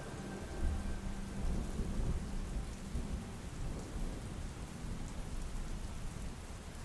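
Steady rain falling, with a low rumble of thunder underneath that swells about half a second in.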